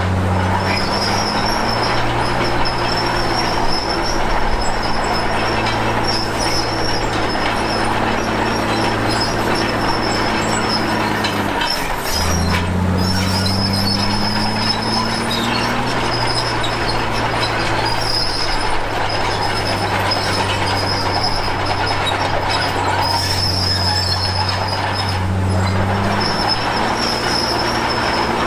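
Komatsu D53P crawler bulldozer working: the diesel engine runs under load while the steel tracks squeal and clank. The engine note drops and climbs again about twelve seconds in, and rises once more near the end.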